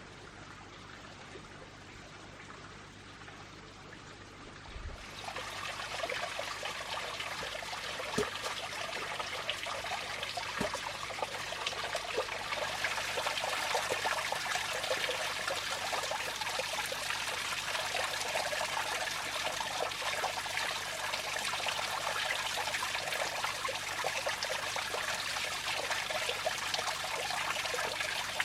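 Water trickling and running, starting about five seconds in and getting a little louder about twelve seconds in.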